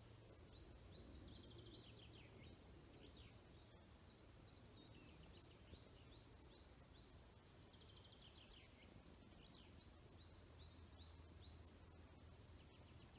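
Faint songbird singing: three phrases, each a run of short rising whistled notes ending in a quick trill, over a low steady background hum.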